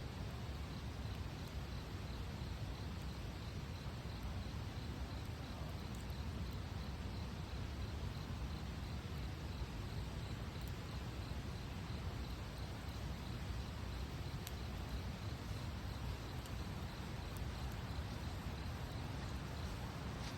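Wood fire burning: a steady low rush with a few faint, sharp crackles spread through it.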